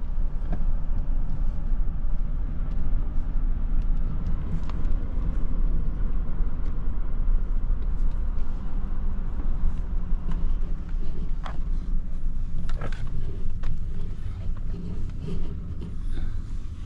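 Car driving, its engine and tyre noise heard as a steady low rumble from inside the cabin, with a few light clicks about two-thirds of the way through.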